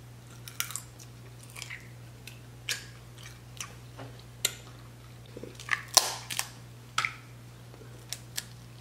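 Close-miked chewing of snow crab meat, with sharp clicks and cracks as snow crab leg shells are snapped apart by hand; the loudest cracks come about six seconds in.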